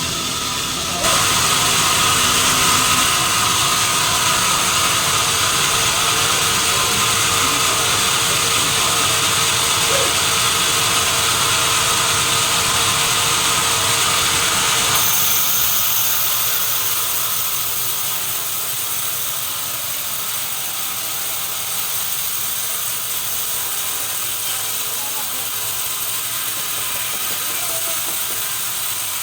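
Sawmill machinery running as it saws a long log, a steady mechanical noise. It gets louder about a second in, and about halfway through it turns higher and thinner.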